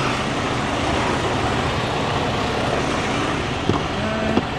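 Steady low rumble of a parked truck idling. A click comes near the end, followed by a short steady tone.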